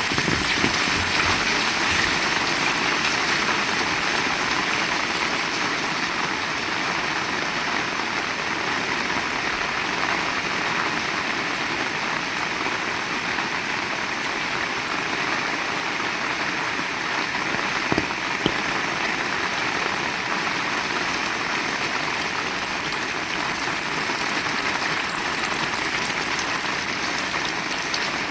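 Heavy rain falling steadily, an even hiss of rain on the ground and surfaces, with two short clicks about two-thirds of the way through.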